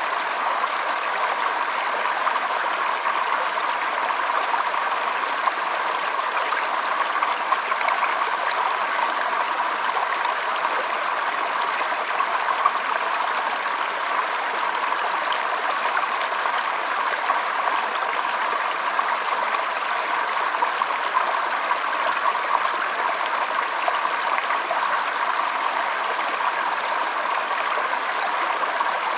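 Flowing stream water: a steady, continuous babbling rush without pauses.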